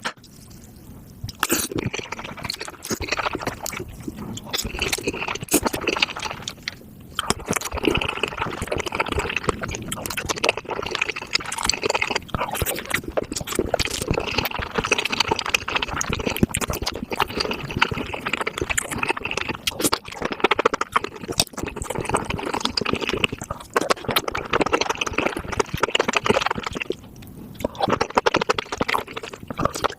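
Close-miked mukbang eating sounds: wet, squelchy chewing and slurping of mushrooms in a spicy sauce, with dense crackling clicks and a few brief pauses.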